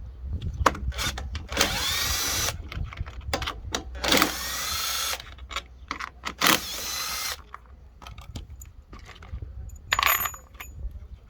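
Cordless power driver spinning in three short bursts of about a second each, its whine rising in pitch, between scattered clicks and clinks of tools and metal parts being handled.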